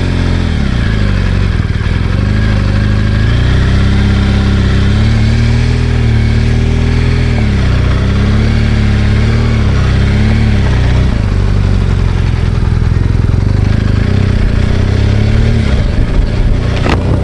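BMW R1200GS Adventure's boxer-twin engine running under way, its pitch rising and falling gently as the throttle varies, with a short sharp knock near the end.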